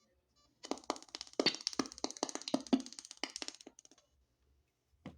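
Portable speaker popping out a rapid, irregular string of clicks and knocks for about three seconds once it gets USB power, then one last click near the end; this is the strange noise the dead speaker is said to make.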